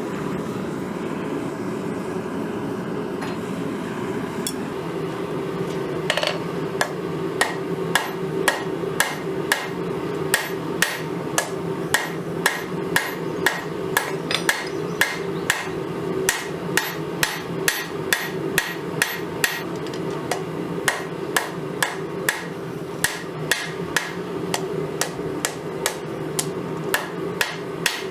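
Hand hammer striking spring steel on an anvil while forging a knife blade, sharp ringing blows about two a second that start a few seconds in, over a steady roar.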